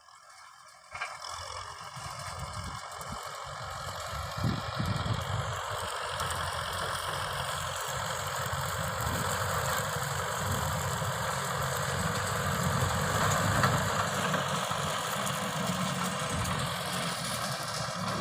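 Kubota M6040 tractor's diesel engine running steadily, coming in about a second in.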